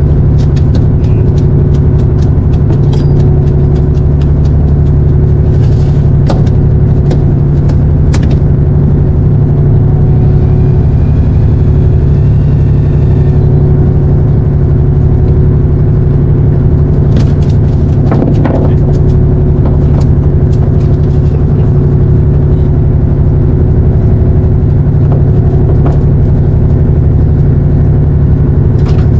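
Boat engine running steadily at an even, unchanging speed, with scattered short clicks and knocks over it.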